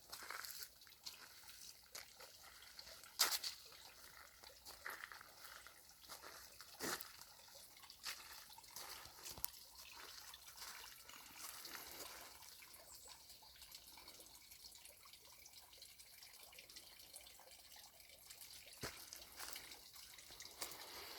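Faint trickling and dripping of water falling down a three-tier garden water feature, with a few sharper clicks of drops about three and seven seconds in.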